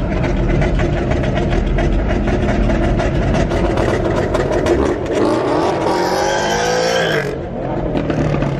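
Loud car engines running with a rapid, rough pulse, then one revving hard, its pitch climbing from about five seconds in before cutting off suddenly a little past seven seconds.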